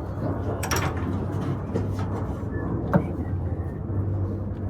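Sharp metallic clicks from work on the engine, one a little under a second in and a louder one about three seconds in, over a steady low hum.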